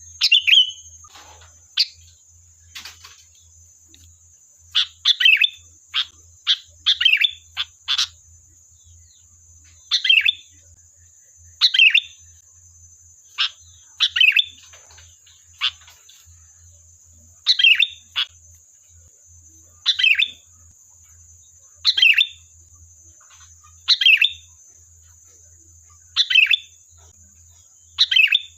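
Sooty-headed bulbul (kutilang) singing. It gives short, bright chattering phrases, several in quick succession about five to eight seconds in, then one about every two seconds.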